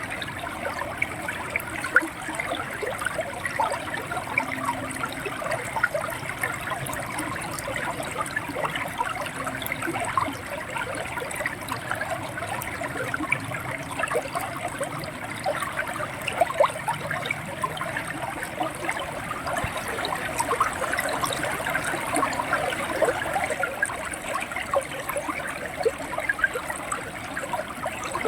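River water flowing and gurgling steadily over rocks, with many small splashes and trickles.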